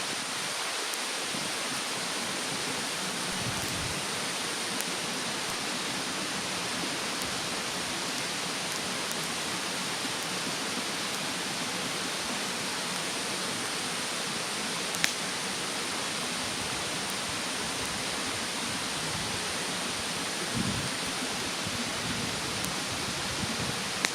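Steady rushing of a mountain stream under a wood fire in a fire stand, which gives a few soft crackles and one sharp pop about fifteen seconds in.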